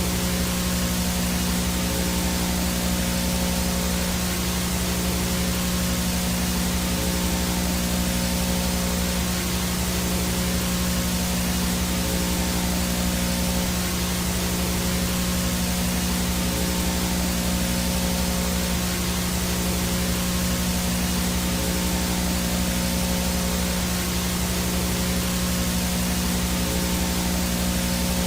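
VHS static: a steady, even hiss of analog no-signal noise, with a constant low electrical buzz underneath.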